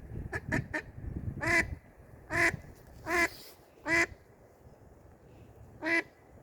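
Duck quacking: a quick run of three short quacks, then five louder, separate quacks spread over the next few seconds.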